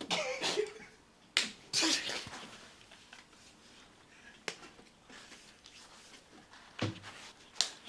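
A handful of separate sharp clicks and knocks spread over several seconds, one of them a duller thump near the end, with soft rustling in between.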